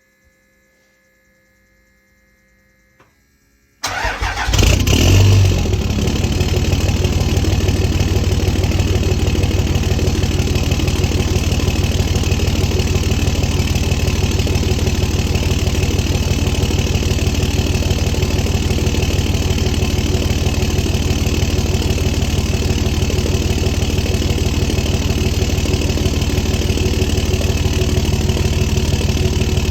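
Stock 2005 5.9-litre Cummins inline-six turbo-diesel with a 5-inch straight turbo-back exhaust, cold started: it cranks and fires about four seconds in, flares briefly, then settles into a steady, loud idle.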